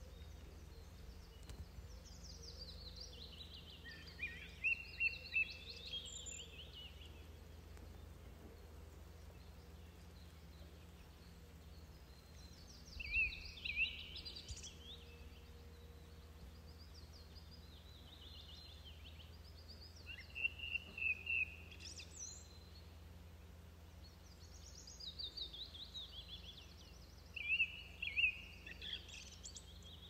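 A songbird singing four short phrases a few seconds apart, each a quick run of high notes falling in pitch and ending on a few lower notes, over a steady low rumble of outdoor background noise.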